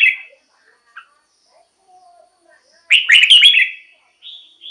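Red-whiskered bulbul singing: the loud tail of one quick phrase of several notes at the start, then a full loud phrase about three seconds in lasting about a second, followed by a softer short note near the end.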